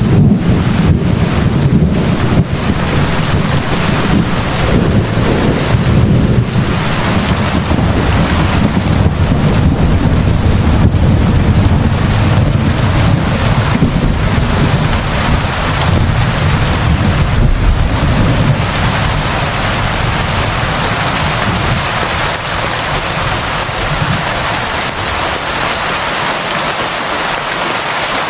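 Steady heavy rain falling, with a deep rumble beneath it that fades away about two-thirds of the way through.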